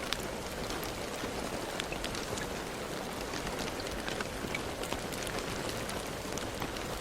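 Steady rain falling, a constant hiss of rain with many distinct drops ticking on a surface.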